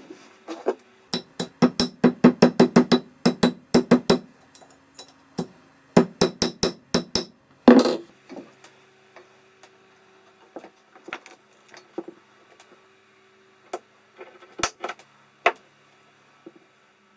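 A small hammer tapping on the wooden tool chest in quick runs of light strikes, about four a second, then a few scattered knocks, with a faint steady hum underneath.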